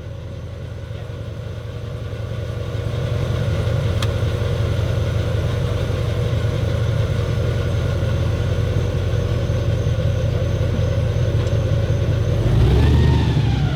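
Airboat engine and propeller running steadily, a low drone that grows louder over the first few seconds, with a brief rise and fall in pitch near the end.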